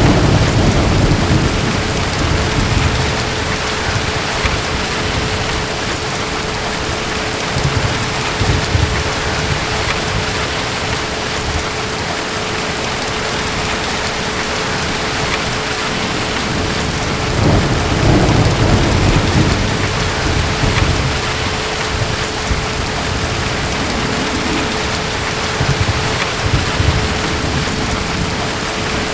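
Steady rain with distant thunder rumbling low several times: at the start, around eight seconds in, a longer roll from about seventeen to twenty-one seconds, and again near the end.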